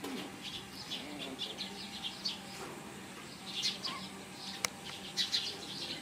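Small birds chirping busily, many short high chirps coming in quick runs throughout, with one sharp click about four and a half seconds in.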